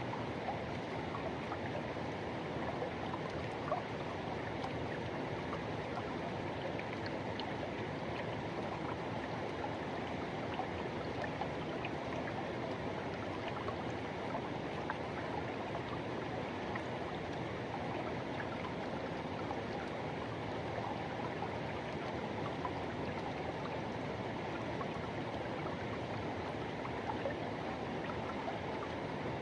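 Forest river flowing steadily over rocks, a constant rushing with small splashes and gurgles.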